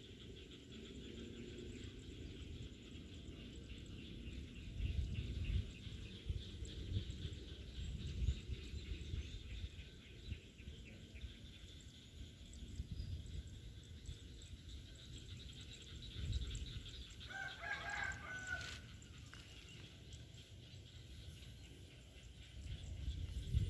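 A rooster crowing once, about 17 seconds in, a single call lasting about a second and a half. Underneath runs a steady high hum and uneven low rumbles.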